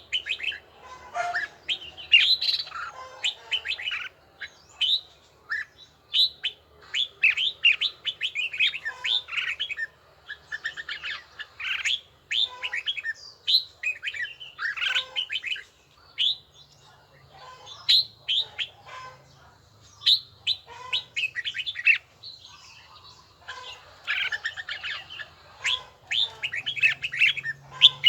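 Red-whiskered bulbul singing: bursts of quick, bright chirped phrases about a second or two long, separated by short pauses.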